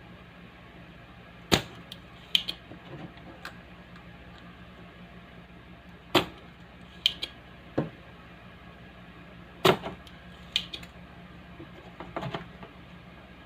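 Scattered sharp clicks and knocks, about nine of them at uneven gaps, over a steady low hum.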